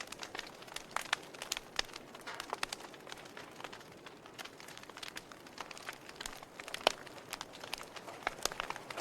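Campfire crackling: irregular sharp pops and snaps over a low steady hiss, with one louder pop about seven seconds in.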